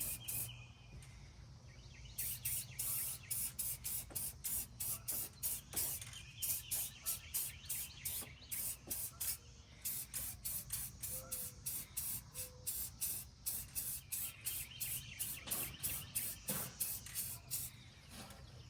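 Aerosol spray-paint can hissing in quick short bursts, about three a second, as paint is sprayed onto an engine's cylinder head.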